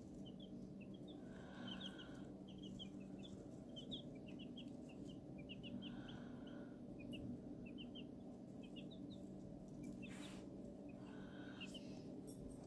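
Brood of young chicks peeping: many short, high chirps overlapping, over a steady low hum.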